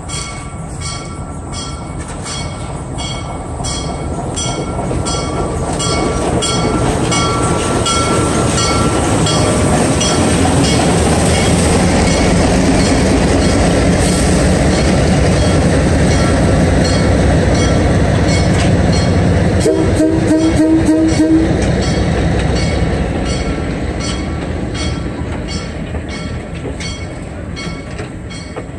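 Diesel locomotive passing close by at low speed with an excursion train: its engine rumble swells as it goes by, then eases as the coaches roll past with rhythmic clicking of wheels over the rail joints. A short horn note sounds about twenty seconds in.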